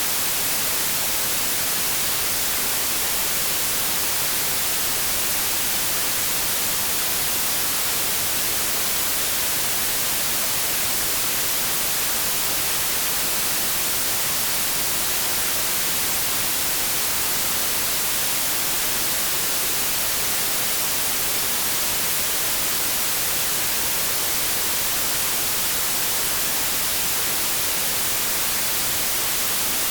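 Continuous white noise: a steady, even hiss, brightest in the high frequencies, that never changes in level.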